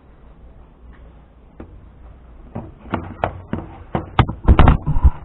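Handling noise from work on a bench: a run of taps and clicks starting about halfway, coming closer together and louder near the end, with a few heavier knocks.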